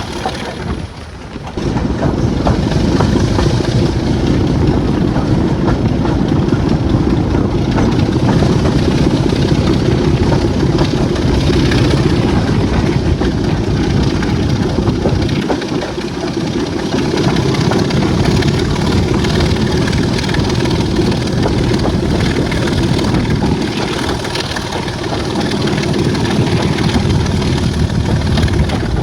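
Class 26 diesel locomotive's Sulzer six-cylinder engine running loud and steady, easing off briefly about a second in and again around halfway before picking up.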